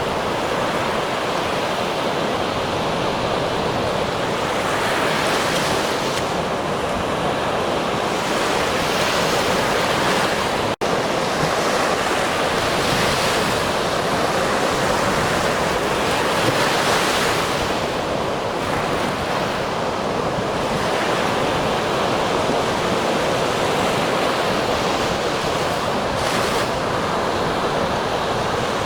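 Ocean waves washing onto a shore: a continuous surf hiss that swells as a wave breaks every few seconds. The sound drops out for a split second about eleven seconds in.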